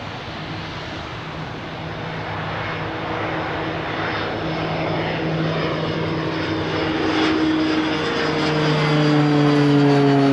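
Aircraft engines growing steadily louder as a plane approaches, with several engine tones sliding down in pitch over the last couple of seconds.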